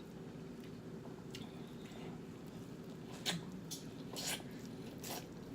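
A person eating a sauced seafood boil close to the microphone: chewing, with several short wet smacks and clicks, over a steady low hum.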